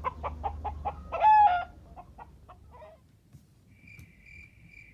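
Chicken clucking in quick short clucks, with one louder drawn-out squawk about a second in. Crickets chirp steadily from near the end.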